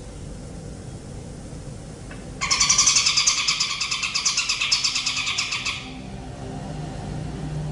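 A bird gives one rapid, rattling trill of about three seconds, starting abruptly and cutting off, over a faint low hum.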